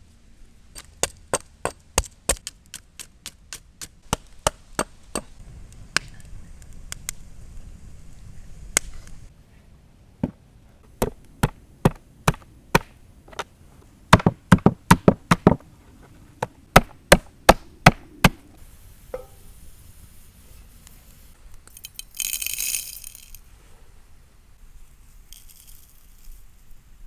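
A knife chopping on a wooden cutting board: sharp, even knocks in runs of two to four a second, stopping for a moment now and then. A brief hiss comes later, once the chopping has stopped.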